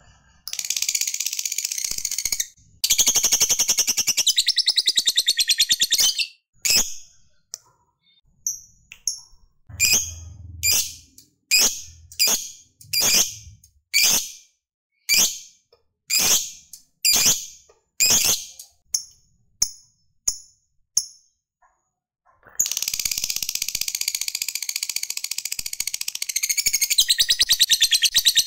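Lovebird giving its long, rapid chattering trill (ngekek), broken by a run of single sharp chirps about once a second. The long trill starts again about 22 seconds in.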